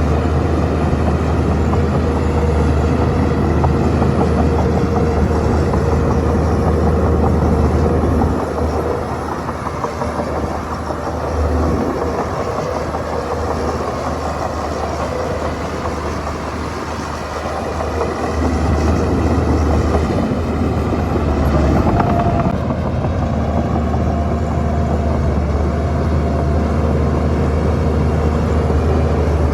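Shantui bulldozer's diesel engine running steadily under work. It eases off for several seconds partway through, then picks up again.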